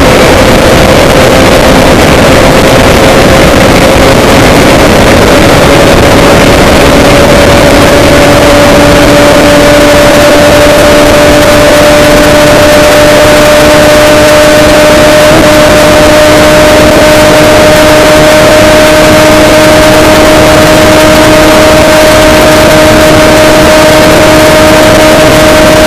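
Loud, steady vehicle noise with a motor hum that rises slowly in pitch over the first ten seconds or so, then holds steady.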